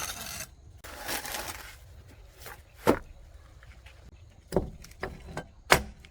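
Two short rustling, scraping noises, then three sharp knocks spread over about three seconds, with a few fainter knocks between them.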